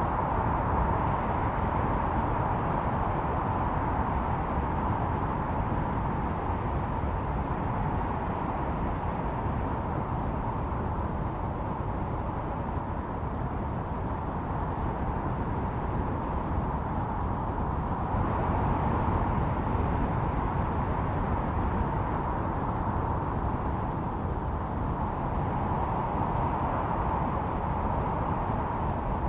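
Howling blizzard wind: a steady rushing roar with a whistling tone that swells and eases every several seconds.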